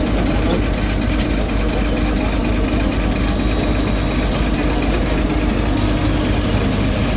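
Heavy diesel road-construction machinery running steadily, with a low engine hum.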